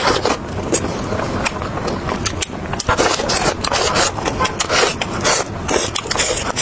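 Chewing and crunching on fried chicken: many short, irregular crackles and clicks over a steady low rumble.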